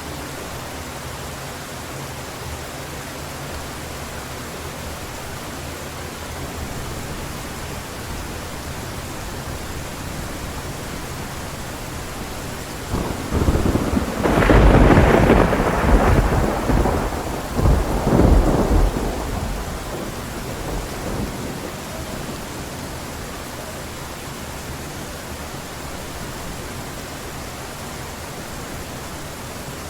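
Steady heavy rain hiss with a loud thunder clap about halfway through. The thunder rumbles in two surges for several seconds, then fades back under the rain.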